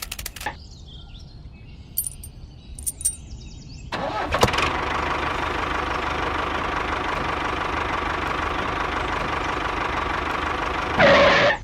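An engine starts about four seconds in and runs steadily. It swells louder briefly near the end, then cuts off suddenly.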